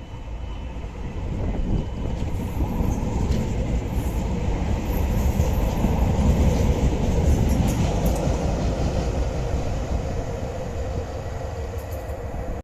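A train running through on the rails, its rumble building to a peak midway and then easing off, before cutting off suddenly at the end.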